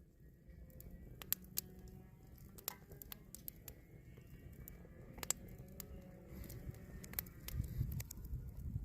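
Scattered light clicks and taps at irregular times over a faint low rumble.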